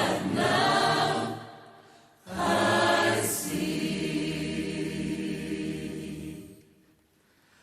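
Choir singing long, held chords in two phrases, the second fading out about seven seconds in.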